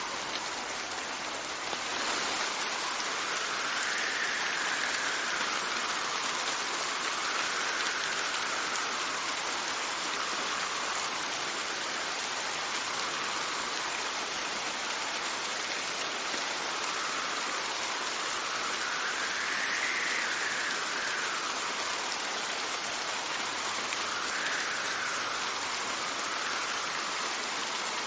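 Steady heavy rain with wind gusting over it. A hollow whistle rises and falls every few seconds.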